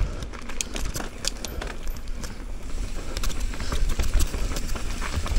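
Mountain bike rattling over rough, rocky trail, heard from a helmet chin-mounted camera: many sharp clicks and knocks over a steady low rumble.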